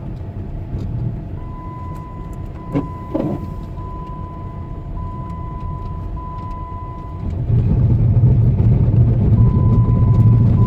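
Jeep Compass driving on a snowy, icy road, heard from inside the cabin: a steady low rumble of tyres and engine that grows clearly louder about three quarters of the way through. A thin steady high tone comes and goes over it.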